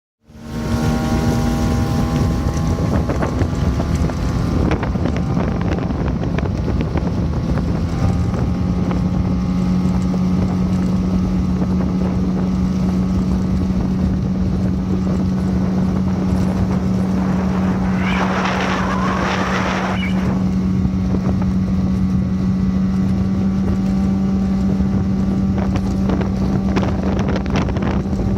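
Small boat engine of a foam boat running at a steady pitch, settling to an even drone after a few seconds, with wind and water noise. A brief hiss about two-thirds of the way through.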